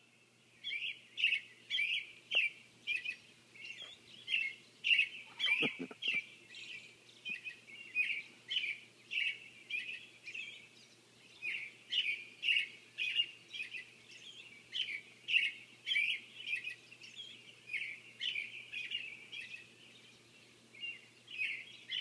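Birds chirping in the pre-dawn chorus, short chirps repeated about twice a second with a brief lull near the end.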